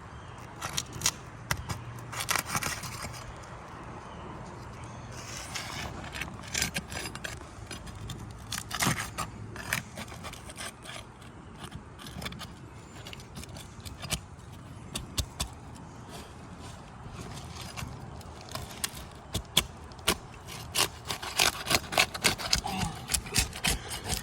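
Flat pry bar working under asphalt shingles, breaking their sealant strips loose: irregular scraping and crackling with many sharp clicks, coming thicker in the last few seconds.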